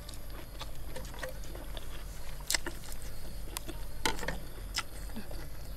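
Close-up eating sounds: soft, scattered mouth clicks and smacks from chewing, with a few sharper clicks about two and a half, four and nearly five seconds in.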